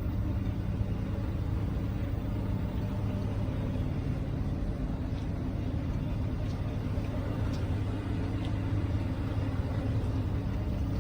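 Scania R420 truck's diesel engine running steadily, a low even drone that neither rises nor falls, with a few faint ticks.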